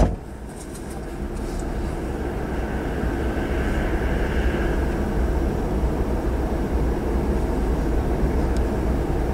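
Rumble of an approaching diesel freight train, growing gradually louder.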